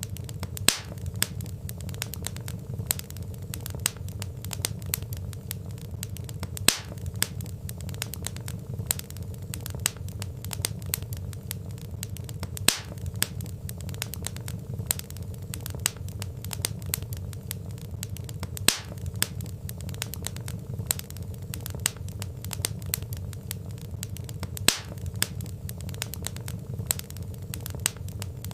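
Wood fire crackling: many small snaps and ticks from burning logs, with a louder pop about every six seconds, over a steady low rumble.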